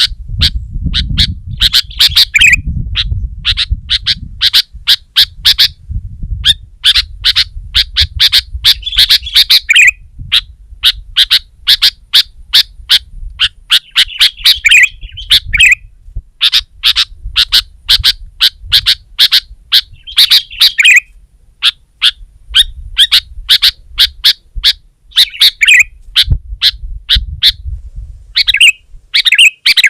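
Sooty-headed bulbul (kutilang) singing persistently: loud, sharp, chattering notes repeated about three times a second with only brief pauses. A low rumble runs underneath, strongest in the first few seconds.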